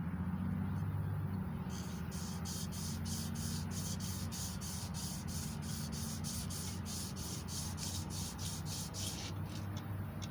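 Emery cloth rubbed back and forth around a small-block Chevy 350 crankshaft journal to polish it, in quick even strokes about three a second. The strokes start a couple of seconds in and stop near the end, over a steady low hum.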